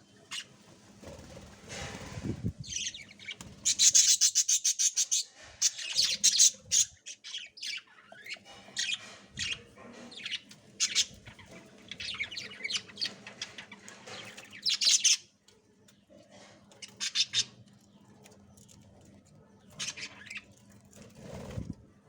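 Budgerigar chicks calling in the nest in runs of rapid, high chirps, in bursts with short quiet gaps between, over scuffling and rustling in the nest.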